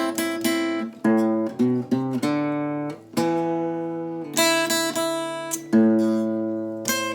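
Solo acoustic guitar playing an enka melody: plucked melody notes over strummed chords, each struck chord ringing and fading before the next.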